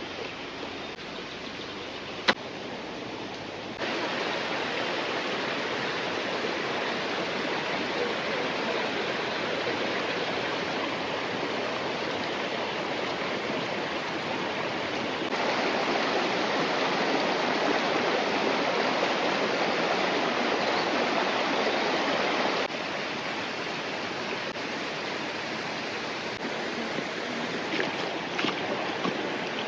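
Steady rushing of a river or stream, its level jumping abruptly up and down a few times. A single sharp click about two seconds in.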